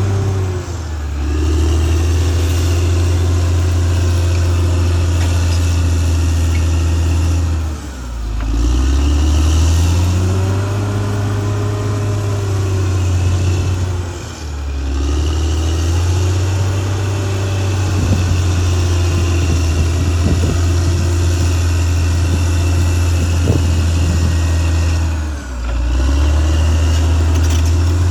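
Caterpillar D6R XL bulldozer's diesel engine working under load, its pitch and level dipping briefly and recovering four times as the load changes. A stretch of rattling and clanking comes about two-thirds of the way through.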